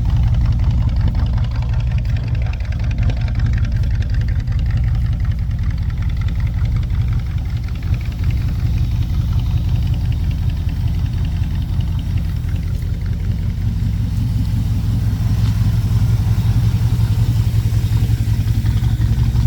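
1965 Chevrolet C10 pickup's engine idling steadily, a little louder near the end.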